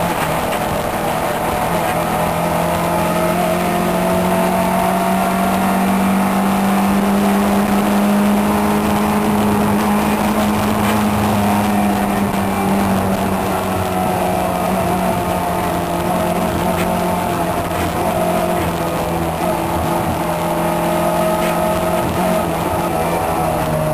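Car engine running hard at high revs, heard from inside the cabin as the car is driven fast through a cone course. The engine note climbs slightly over the first several seconds, eases down a little about halfway through, then holds steady.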